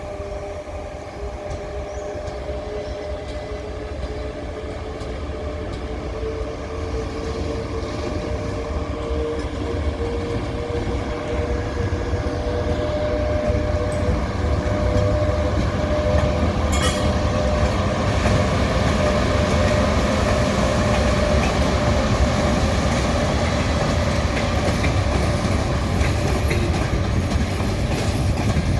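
EP1M electric locomotive pulling a passenger train away from a station. A whine rises slowly in pitch, with a low rumble and the clatter of wheels. It grows louder over the first half and then holds steady, with one sharp click about halfway through.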